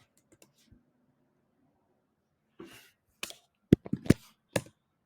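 Several sharp clicks of computer keys, a few tenths of a second apart, in the second half, after a soft breath-like rustle. Before that there are only a few faint ticks.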